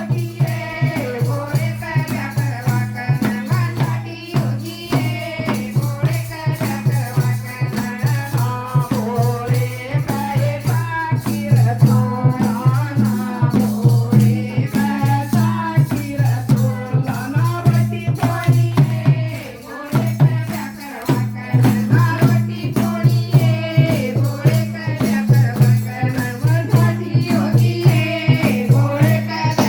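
Hindi devotional bhajan music: a melody that looks like a woman's singing voice over a fast, steady drum beat with a jingling rattle.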